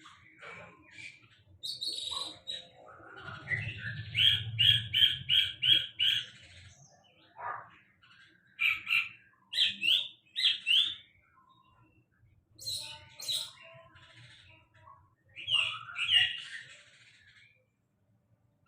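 A songbird singing in separate phrases. One phrase is a quick run of about seven evenly repeated notes; the others are short chirpy phrases with pauses between them.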